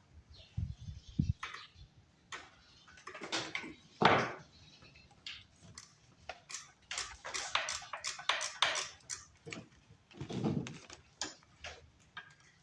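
Hand tools clicking and knocking while a wrench works the mini bike's engine mount bolt, with a quicker run of clicks about seven to nine seconds in and a few dull thuds.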